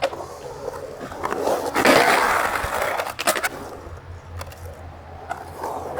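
Skateboard on concrete: sharp clacks from the board, a loud rough scrape about two seconds in, then the low rumble of wheels rolling.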